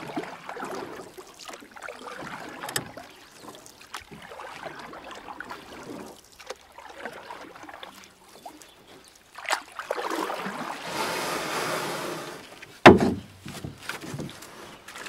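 A canoe being paddled: paddle strokes swishing and splashing in the water, with scattered light knocks and one loud knock near the end.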